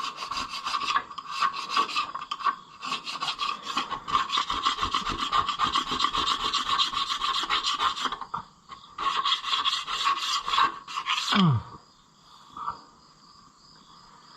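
Rapid, repeated scraping strokes of a hand tool on the metal underside of the Ferguson 30's engine block, working old gasket material off the oil pan mating surface. The scraping pauses briefly and stops a few seconds before the end.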